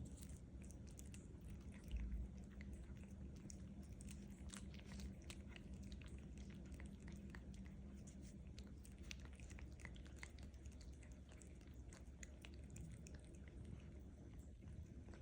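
Kittens chewing treats: faint, irregular small clicks of eating, with a soft low bump about two seconds in.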